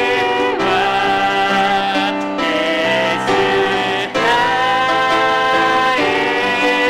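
Church worship team singing a hymn with piano accompaniment, in long held notes.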